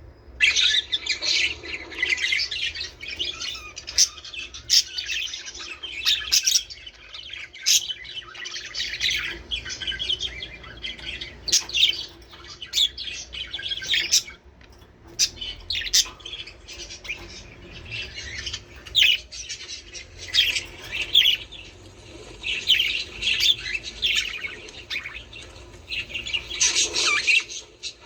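Budgerigars chattering continuously, a busy mix of warbling chirps and sharp squawks.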